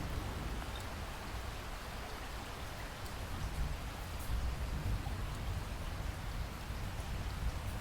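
Steady rain falling, a dense hiss with scattered small drop ticks over a low, constant rumble.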